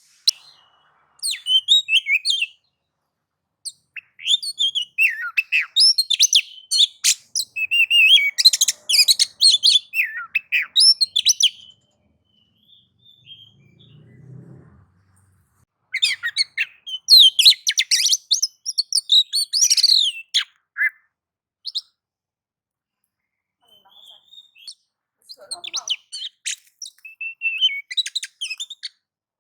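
Oriental magpie-robin singing in several bursts of rapid, varied high chirps and whistles, separated by pauses of a few seconds. This is the fired-up, combative song that keepers play as a lure to provoke other magpie-robins.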